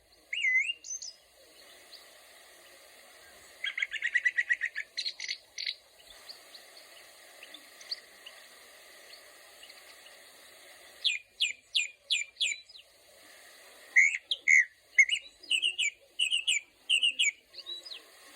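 Songbirds calling in separate bouts. First comes a short curving whistled note, then a fast trill about four seconds in. Around eleven seconds there is a quick run of sharp down-slurred chips, and near the end a series of varied whistled notes.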